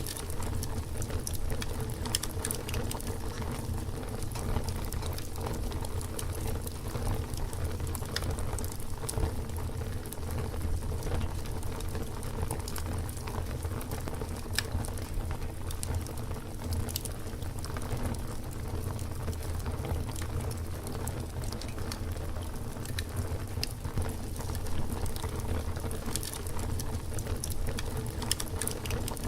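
Wood campfire burning: a steady low rush of flames with frequent, irregular sharp crackles and pops from the burning wood.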